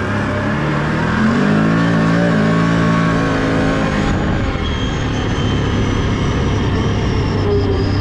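Can-Am ATV engine running while riding, revving up about a second in and easing back around four seconds, then running steadily.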